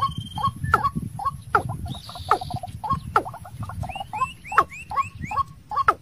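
Caged decoy bird calling in a rapid, steady series of short falling notes, about two to three a second, with a few higher rising chirps about four to five seconds in.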